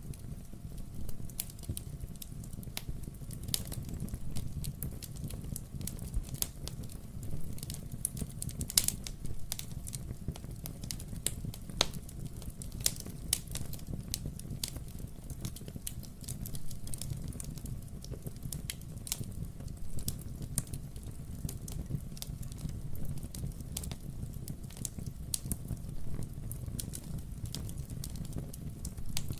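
Wood-burning fireplace crackling: burning logs give off frequent irregular sharp pops and snaps over a steady low rumble of the flames, with one louder pop about nine seconds in.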